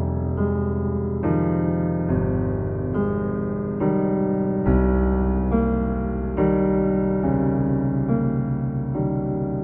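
Instrumental piano music: sustained chords with deep bass notes, changing about once a second.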